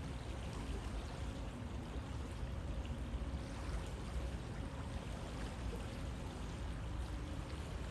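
River water flowing steadily over rocks, a continuous rushing and pouring sound with a deep low rumble underneath.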